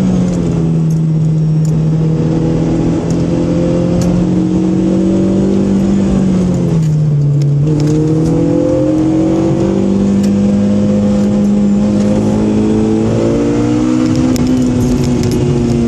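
Honda car's engine running at speed, heard from inside the cabin with tyre and road noise. The engine note holds fairly steady, drops briefly about seven seconds in, then climbs again.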